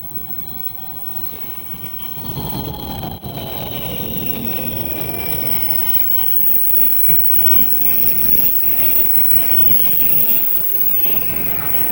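Train running through a station, its whine falling in pitch from about two seconds in, over steady running noise.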